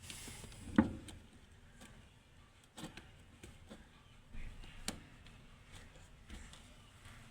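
A few sharp clicks and knocks of parts and tools being handled during fuel pump fitting work, the loudest about a second in and the rest fainter and spread out.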